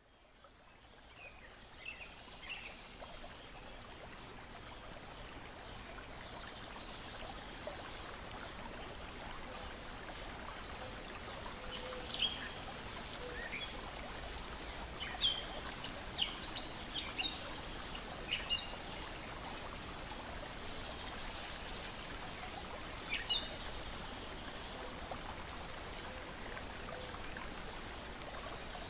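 Gentle water lapping and splashing in a steady wash, fading in over the first few seconds, with birds chirping and singing throughout and a short high trill heard twice.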